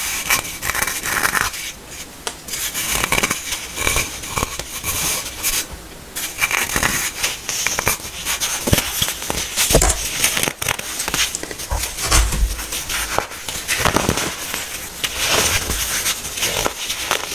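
Hardened baking soda being crushed, a dense run of irregular crunches and crackles.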